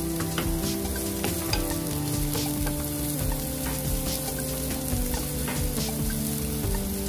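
Onion, garlic and ginger sizzling in hot oil in a nonstick frying pan, stirred with a wooden spatula that taps and scrapes the pan now and then. This is the sauté stage, cooking the aromatics until they give off their aroma.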